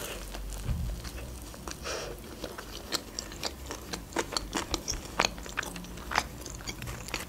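Close-up eating: a bite into a doner kebab sandwich in soft bread at the start, then chewing with many small wet mouth clicks and smacks scattered throughout.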